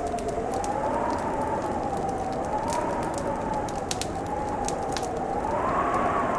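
Wood fire crackling with scattered sharp pops over a steady hiss, beneath a howling wind whose whistle slowly rises and falls in pitch, swelling near the end.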